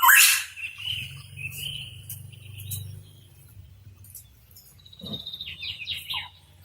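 Pitohui calling: a loud call right at the start, then softer whistled notes, then a quick chattering run of notes about five seconds in. A faint low hum lies underneath.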